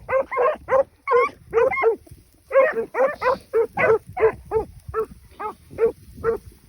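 Beagles baying on a rabbit's trail: a steady run of short, repeated calls, about three a second, with a brief pause about two seconds in.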